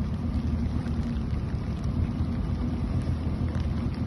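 Boat motor running steadily at trolling speed, a constant low hum, with light rain ticking now and then.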